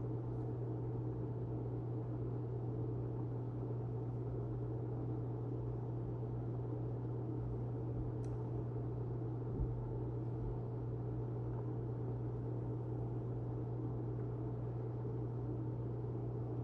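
Steady low hum with a band of noise beneath it, unchanging throughout, with a single soft thump about ten seconds in.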